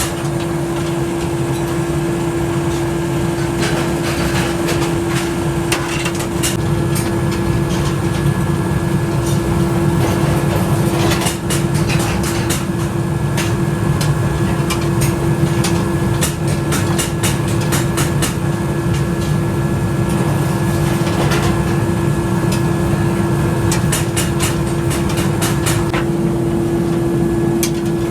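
Workshop machinery running with a steady hum, with many sharp clicks and knocks of metal work through it.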